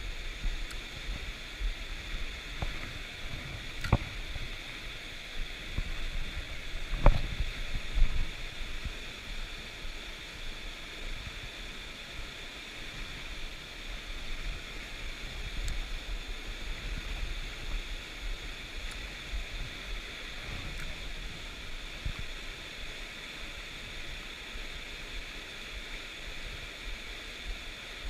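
Stream water rushing steadily, with a few sharp knocks in the first eight seconds.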